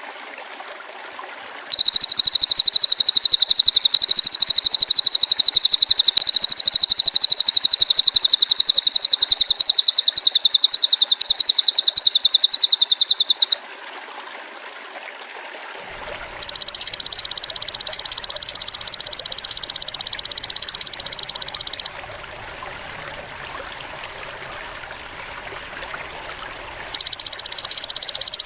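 Masteran recording alternating a cililin bird's call with the call of a belalang emas (golden grasshopper). A loud, very fast, high-pitched trill lasts about twelve seconds. It is followed, after a pause, by two shorter, slightly lower buzzing trills, each several seconds long, with a low hiss between the phrases.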